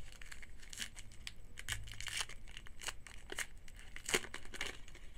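Foil trading-card pack wrapper being torn open and crinkled: a string of crackles and tears, the sharpest about four seconds in.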